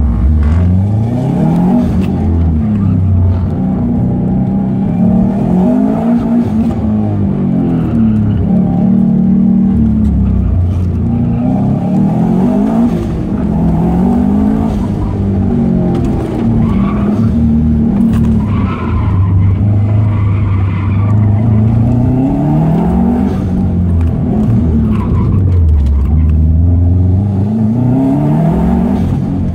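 2006 Subaru Impreza WRX STI's turbocharged flat-four engine heard from inside the cabin, revving up and falling back again and again as the car is driven hard through an autocross course, with tyres squealing at times in the turns.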